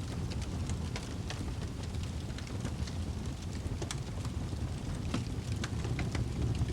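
Fireplace wood fire crackling: scattered, irregular sharp pops and snaps over a steady low rumble of the burning flames.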